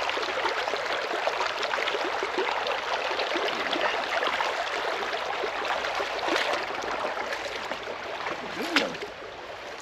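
Steady rushing of river water running over a riffle, with a brief sharper sound near the end.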